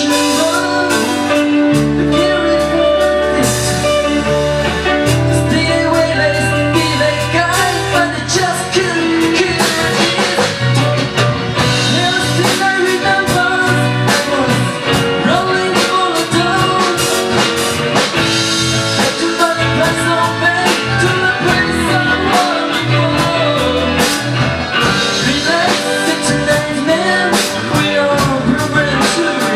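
A band playing a rock song: singing over guitar, bass and drum kit.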